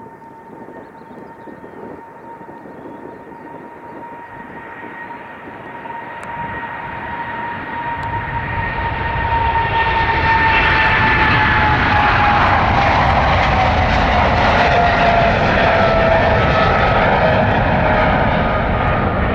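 Boeing 777-300ER's GE90 turbofan engines at takeoff power on departure, a jet noise and deep rumble swelling as the aircraft approaches. About ten seconds in it reaches full loudness while the engine whine falls in pitch as the jet passes.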